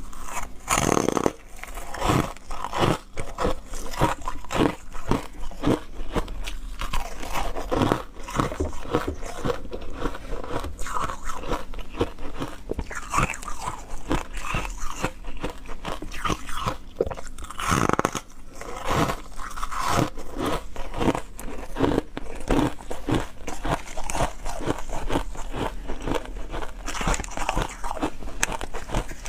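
Ice being bitten and crunched between the teeth: an irregular run of sharp cracks and crunches, several a second, as the pieces are chewed.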